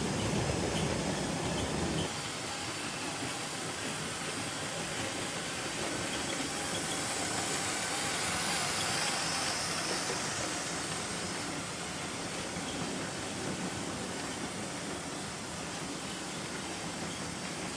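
A Lego train running steadily on plastic track, its electric motor whirring and its wheels rolling along the rails.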